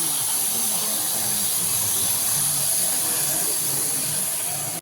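A steady hiss over faint murmuring voices, cutting off abruptly at the end.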